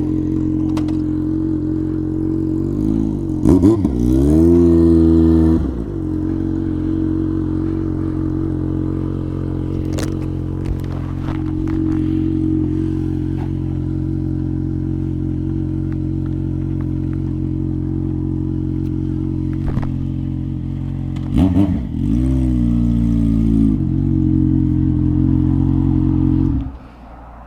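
Motorcycle engine idling steadily close by, blipped up twice and held at higher revs for a few seconds each time. The engine note cuts off abruptly near the end.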